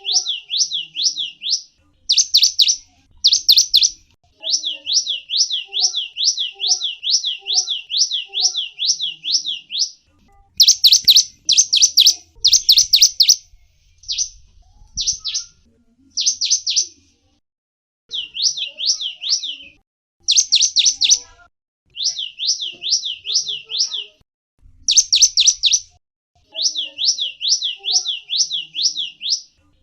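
Small songbird, the gelatik wingko, singing in phrases. There are runs of quick sweeping chirps, a few each second, alternating with shorter bursts of sharper, brighter notes, with brief pauses between phrases.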